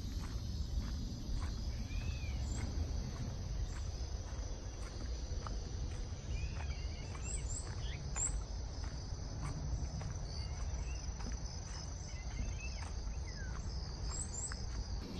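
Outdoor ambience: insects trilling in a steady high-pitched drone, with scattered short bird chirps over a constant low rumble.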